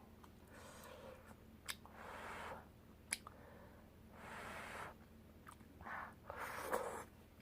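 Close-miked eating sounds: a person chewing, with small wet mouth clicks and four short noisy mouth sounds.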